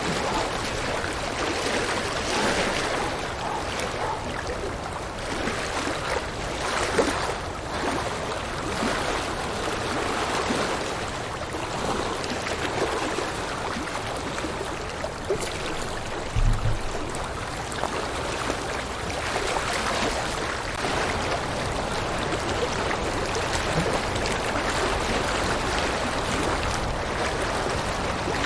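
River water running steadily, an even rushing babble, with one brief low thump about halfway through.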